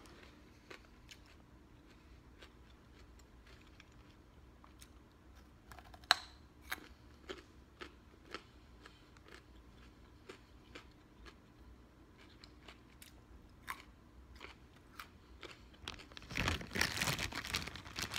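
Crunchy chewing of a raw carrot: scattered crisp crunches, with one sharp bite about six seconds in. Near the end, a louder stretch of rustling and handling noise.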